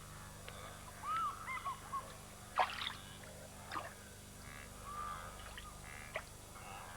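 Birds calling at a muddy pool: a quick series of short arched notes about a second in, another call later, with a few sharp snaps and water sounds in between.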